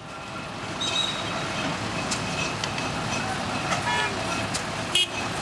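Vintage tractor engines running steadily in the background, with short high toots of a horn or whistle and a sharp click near the end.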